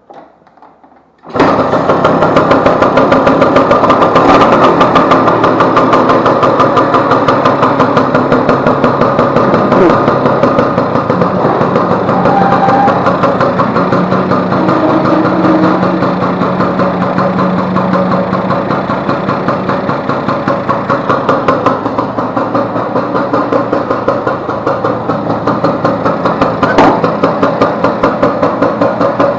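Vespa 150's two-stroke single-cylinder engine starting about a second in, catching at once and then idling with a fast, even beat. The engine has a newly replaced cush-drive gear.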